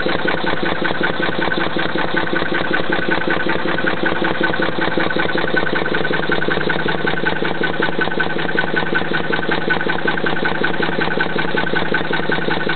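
Petter stationary engine driving an air compressor, running well at a steady, even beat.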